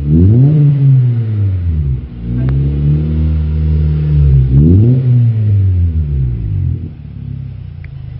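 2012 Honda CR-Z's 1.5-litre four-cylinder engine through an HKS aftermarket exhaust muffler, revved twice: each time the pitch climbs quickly and then falls back, and after about seven seconds it drops to a quieter idle.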